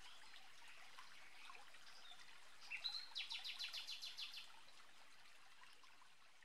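Faint birdsong ambience with scattered chirps. About three seconds in, a songbird sings a quick run of about ten repeated high notes, then the sound slowly fades out.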